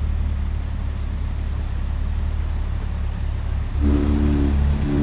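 Off-road 4x4's engine running under a steady deep drone while driving on a rough track; about four seconds in it gets louder, with higher engine tones coming in as it revs up.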